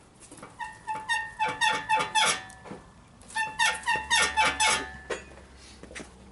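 Toyota Verossa front suspension squeaking in two runs of repeated short metallic squeaks, about three or four a second, as the suspension moves. It is presumed to be the front lower ball joint on the control arm, not the stabilizer bushings.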